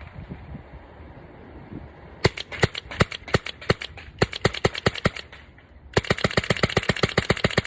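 Meteor Autococker paintball marker firing rapid strings of shots. One string starts about two seconds in at roughly six shots a second, and after a short pause a faster string begins near the end.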